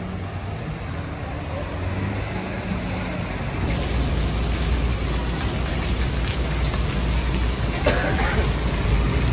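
Traffic hum from a flooded street, then about four seconds in it cuts to steady heavy rain falling on paving, with a low rumble underneath.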